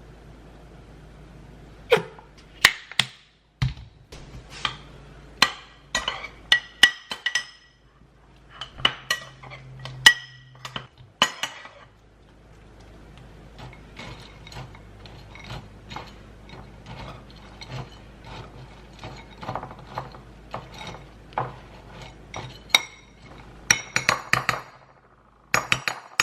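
Irregular clinks and knocks of dishes and metal utensils, some of them briefly ringing, over a low steady hum.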